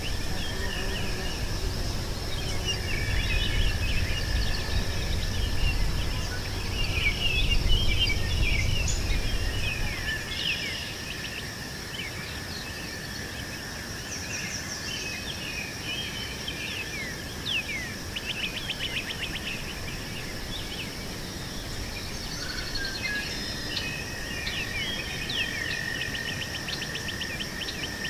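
Meadow ambience: birds chirping and trilling over a steady high insect drone. A low rumble underneath stops about ten seconds in.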